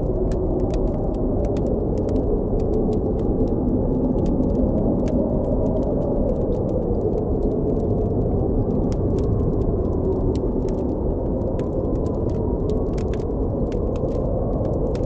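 Blizzard wind blowing steadily with a low, rumbling howl that slowly wavers in pitch, over a campfire crackling with many small, sharp pops.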